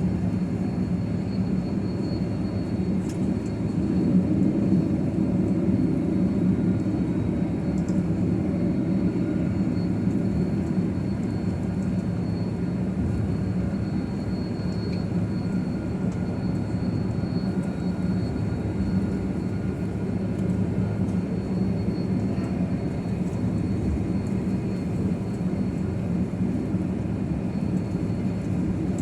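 Steady cabin noise inside a jet airliner taxiing after landing: a continuous low hum from the engines and cabin air, with a thin steady high tone. It swells slightly about four seconds in.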